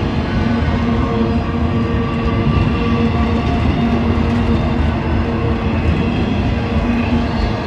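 A northbound train running on the rails: a steady, loud rumble of wheels on track with a few held tones over it.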